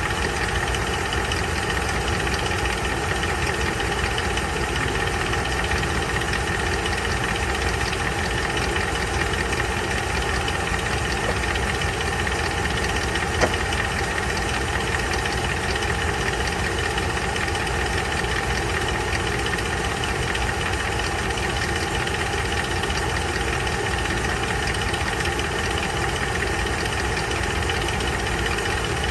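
Ram 1500 engine idling steadily with a rapid, even knocking, which the owner suspects may be rod knock. A single sharp click about halfway through.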